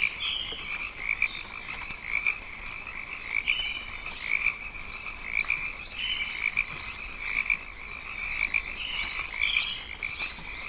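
A chorus of rainforest frogs calling, short pulsed calls repeating every half second to a second, with higher chirps and whistles above them.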